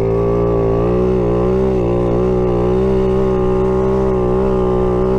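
Boom Vader 125cc Grom-clone mini bike's single-cylinder engine running under way at nearly steady revs, its pitch wavering slightly.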